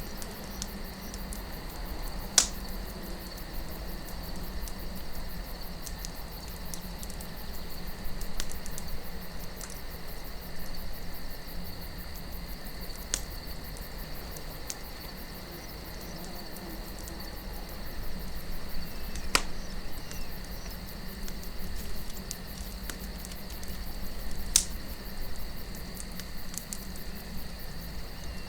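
Campfire crackling: scattered sharp pops of burning wood, three of them loud, over a steady low wind rumble, with a steady high tone running in the background.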